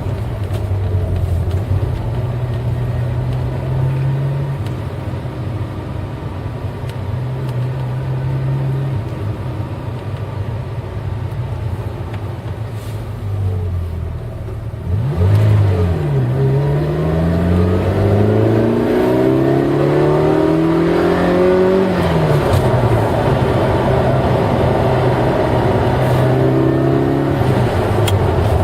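V8 car engine running steadily at first. About halfway through it gets louder and revs up, its pitch climbing for several seconds, then it falls back and runs steadily again.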